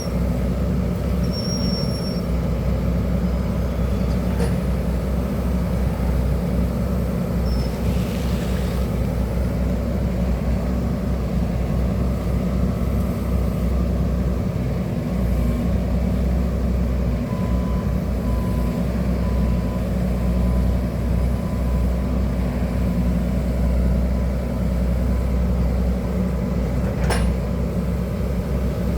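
Excavator's diesel engine running steadily, a constant low drone, with one sharp click near the end.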